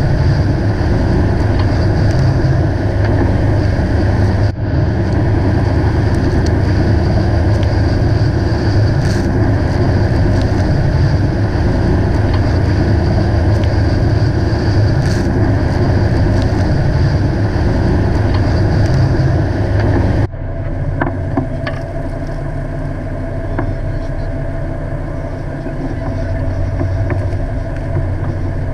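Fishing boat's engine running steadily under way with a deep hum. About 20 seconds in the sound changes abruptly and becomes quieter.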